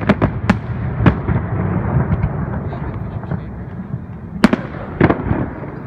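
Aerial fireworks shells bursting: a few sharp bangs, the loudest about four and a half seconds in, over a continuous low rumble of echoing reports.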